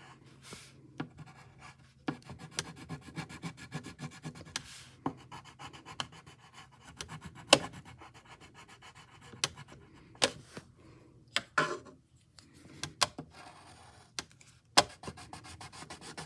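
A pen or marker scratching quickly back and forth across paper as small designs are drawn and coloured in, with a few sharper taps in between.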